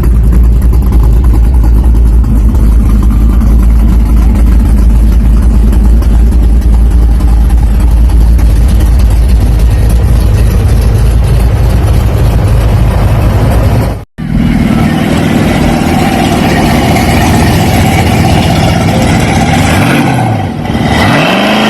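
Car engine running loudly with a deep, steady rumble. About 14 seconds in there is an abrupt cut to another engine running, which revs up briefly near the end.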